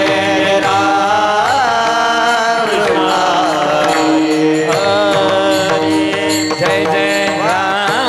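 Male devotional singing of a Varkari abhang, with long drawn-out sung notes that bend and slide in pitch over a steady held drone tone.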